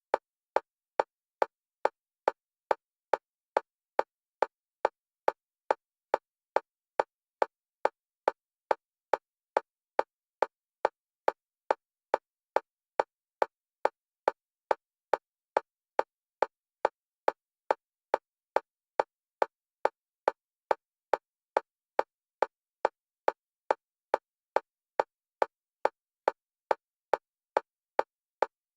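Fast metronome clicks, about three a second, evenly spaced with silence between them, alternating between the left and right stereo channels as bilateral stimulation for EMDR.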